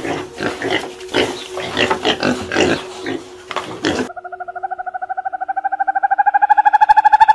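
A herd of pigs grunting and squealing in a dense, overlapping run of short calls. About four seconds in it cuts off and a different animal call starts: a steady, rapidly pulsing buzzy tone that slowly rises in pitch and loudness.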